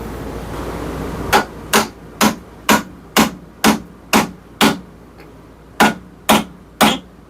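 Hammer blows driving a wooden wedge, set dry without glue, into the top of a hammer handle to spread it tight in the head's eye: eight sharp strikes at about two a second, a short pause, then three more.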